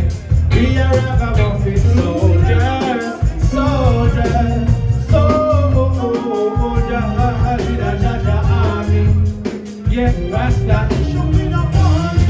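Live roots reggae band playing loud, with a heavy pulsing bass line and a wavering melodic lead over it.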